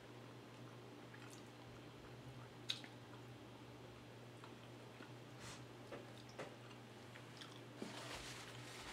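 Faint closed-mouth chewing, with small clicks of fingers picking food from a plate; one sharper click about three seconds in.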